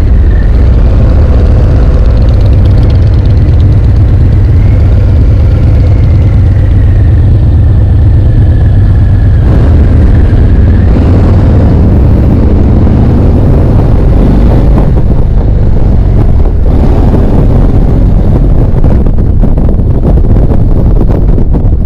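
Harley-Davidson V-twin motorcycle running under way, a loud steady low engine note mixed with wind noise on the microphone.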